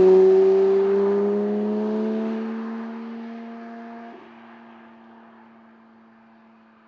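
Porsche 911 GT3's naturally aspirated flat-six engine pulling hard, its note rising slowly as it accelerates, with a brief break about four seconds in, then fading steadily away.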